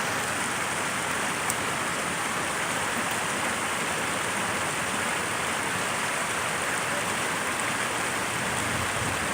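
Rain-swollen creek rushing steadily, high after heavy rains in a bed that is usually dry.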